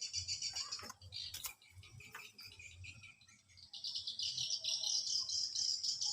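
Small birds chirping in a rapid, high twittering chatter that grows louder about halfway through, with a few short clicks about a second in.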